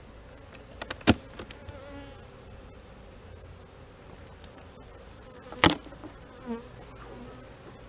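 Honey bees buzzing around an open hive, with the pitch of individual bees passing near the microphone rising and falling. Two sharp knocks stand out, about a second in and again past the middle.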